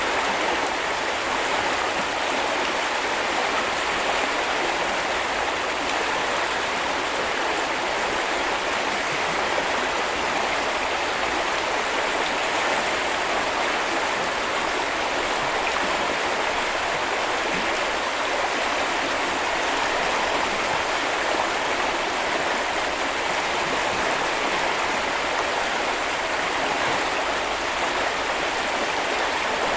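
A small river or brook flowing and burbling steadily over stones, a continuous even rush of water.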